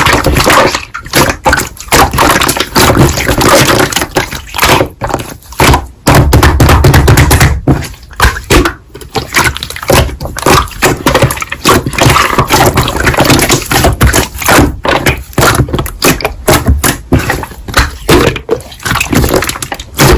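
Hands squishing, pressing and stretching slime: a continuous run of sticky, crackling pops and squelches that start and stop many times a second.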